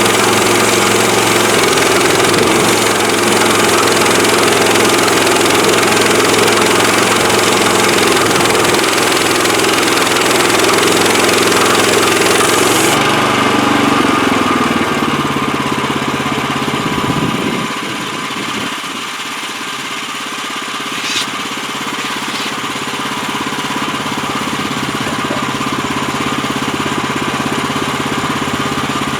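HM130max portable bandsaw mill running under its engine, the band blade cutting through a log. About halfway through, the high hiss cuts off abruptly and the engine sound soon drops to a quieter, steadier run.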